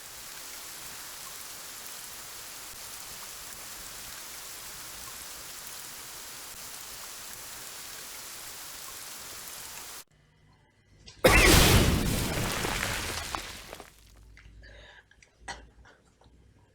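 Rain falling, a steady even hiss that cuts off abruptly about ten seconds in. About a second later comes a loud sudden crash that fades away over about three seconds.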